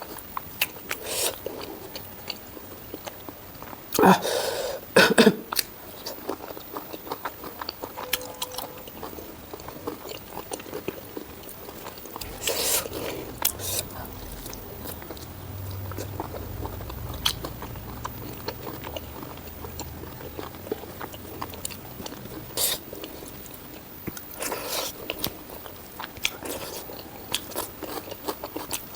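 A person eating close to the microphone, chewing and biting spicy pork ribs and rice with wet, crunchy mouth sounds. The loudest bites come about four seconds in, with more near the middle and toward the end.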